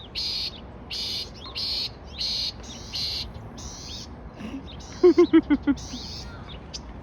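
Small birds calling in a steady series of harsh, buzzy chirps, one roughly every half second to second. About five seconds in comes a quick run of six loud, lower notes, louder than the chirps.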